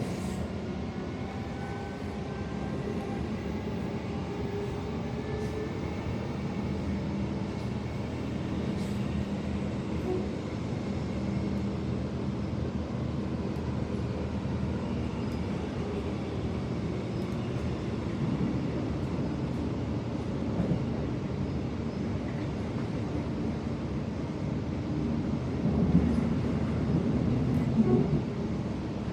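Suburban electric train heard from inside, running between stations: a steady rumble of wheels on the track, with a rising whine from the traction motors over the first few seconds. A few louder knocks from the wheels over the track come near the end.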